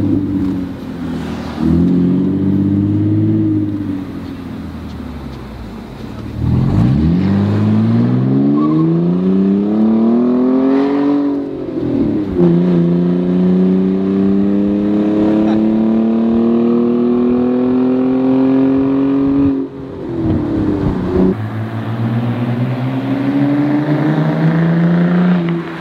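Audi A4 engine running with its exhaust removed, extremely loud. The engine note climbs steadily under acceleration and falls sharply at gear changes about twelve seconds in and again near twenty seconds, then climbs again.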